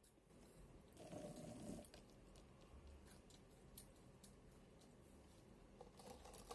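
Faint chewing and biting on a burger: soft mouth sounds with scattered small clicks.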